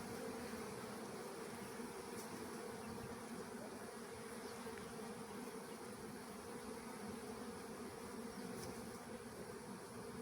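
Honeybees buzzing around a hive: a steady, even hum of many wingbeats.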